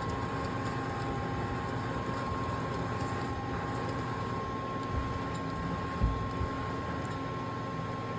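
Takisawa TC-200 CNC lathe running: a steady machine hum with a steady whine over it, and a couple of low thumps about five and six seconds in.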